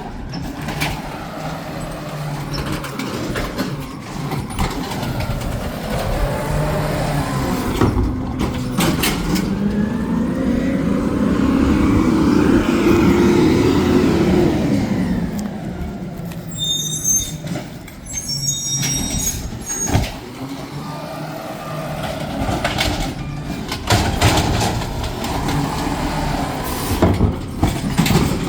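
Garbage truck at work: its engine revs up and back down for several seconds around the middle, with scattered clanks and knocks and a few short high squeals.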